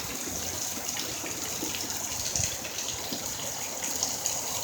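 Heavy rain pouring steadily, with many sharp ticks of single drops striking close by.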